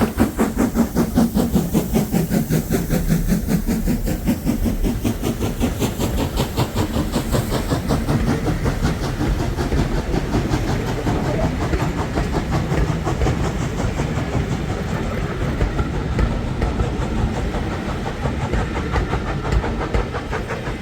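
Steam train running, with a fast, even beat and a hiss of steam that fades after about eight seconds.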